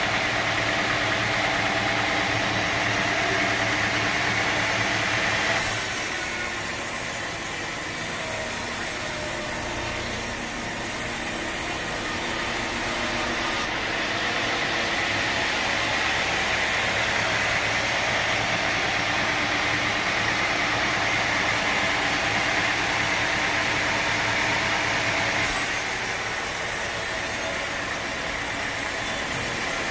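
Sawmill machinery running: a steady engine drone under the hiss of the saw, the sound shifting abruptly about 6, 14 and 26 seconds in.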